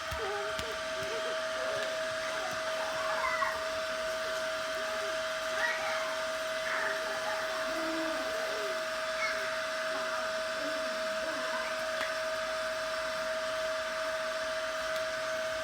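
Small electric motor of a toy train running steadily, a constant hum with a steady high tone that does not change.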